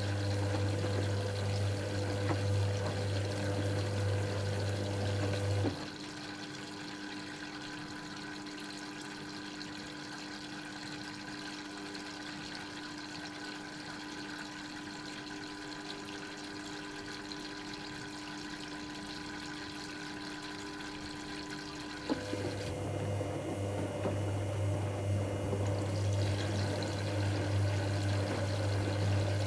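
Dyson Contrarotator CR01 washing machine moving water, with a loud electric hum that cuts off about six seconds in, leaving quieter running water and machine noise, and starts again about 22 seconds in.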